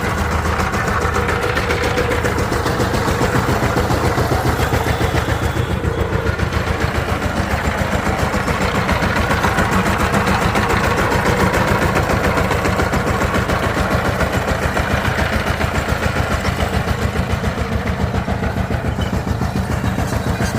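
Diesel engine running steadily at an even speed, with a rapid, regular chugging of its firing strokes.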